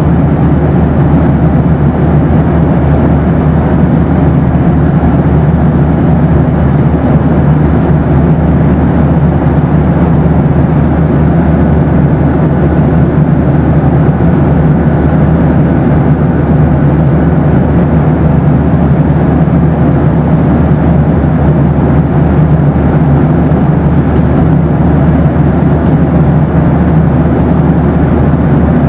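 Steady, loud, low cabin noise inside a Boeing 737 in flight: the even rush of engines and airflow, heaviest in the low register, with no change in level.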